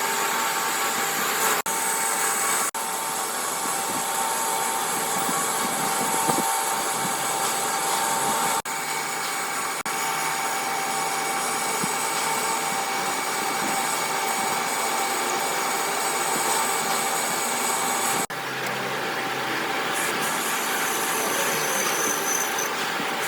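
Steady workshop machine noise, a continuous hiss with high whining tones, broken off briefly a few times.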